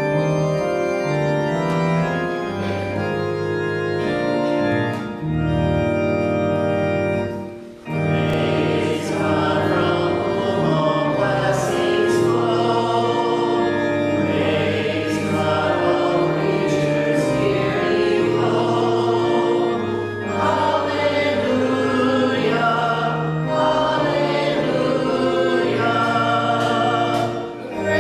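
Church organ playing sustained chords. About eight seconds in, a group of voices joins and sings a hymn with the organ accompanying.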